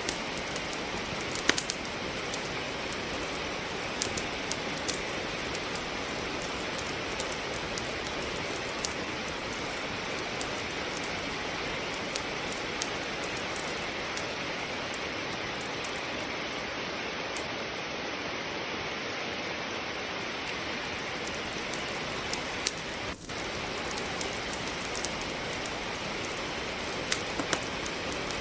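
Steady hiss of falling rain, with scattered sharp crackles and pops of firewood burning in a fireplace, more frequent near the start and the end.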